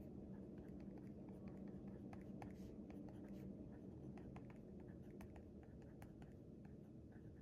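Faint writing on paper: irregular small ticks and short scratching strokes of a pen tip, over a low steady room hum.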